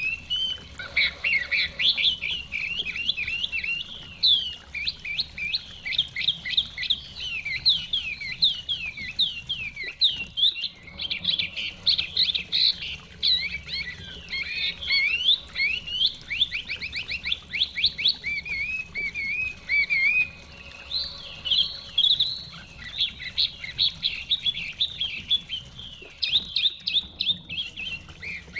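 Chinese hwamei singing nonstop, a long, varied song of rapid whistled phrases, slurred notes and fast trills, with brief breaks about ten seconds in and near the end.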